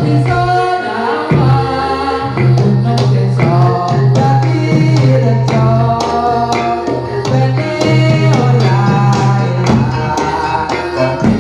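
Live jathilan music with a singer's wavering voice over drums and jingling percussion, with held low notes underneath.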